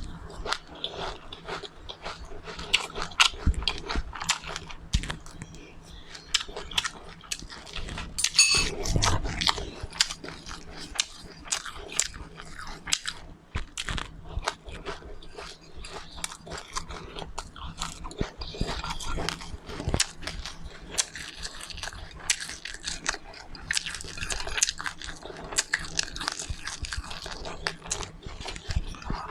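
Close-up chewing and crunching of seeds: many small, irregular crunches and mouth clicks, with a few louder bites.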